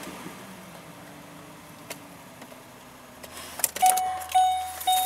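Quiet low rustling, then about three and a half seconds in a few clicks and a vehicle's electronic warning chime beeping about twice a second at one steady pitch.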